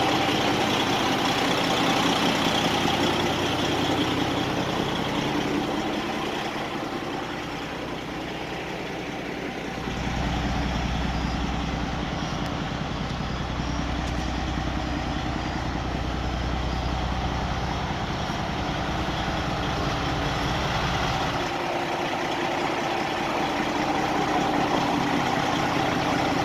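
Detroit Diesel Series 60 14-litre engine of a 2007 Western Star 4900FA semi truck running steadily. A deeper low rumble comes in about ten seconds in and drops away again some eleven seconds later.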